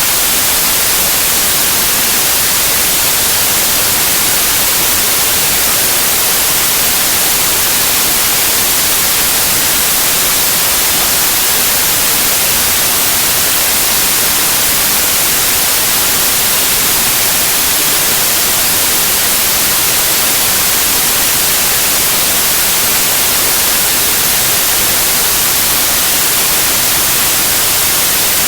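Steady white noise for sleep: an even, unchanging hiss, strongest in the high treble.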